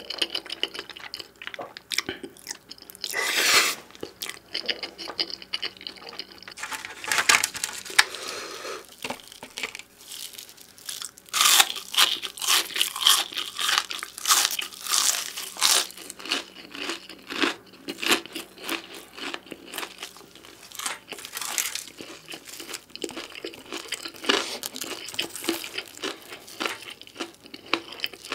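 Close-miked ASMR eating of beef pizza: biting and chewing a crisp crust, a steady run of short sharp crunches.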